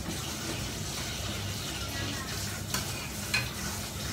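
Celery and shredded chicken sizzling steadily in a stainless frying pan over a gas flame, with two sharp clicks a little over halfway through.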